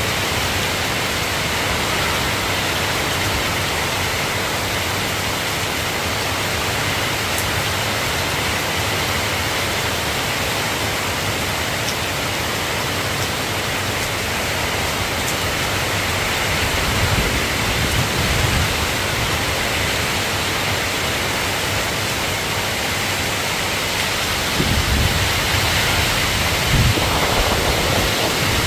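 Steady rain falling, an even hiss, with low rumbles of distant thunder swelling in the second half.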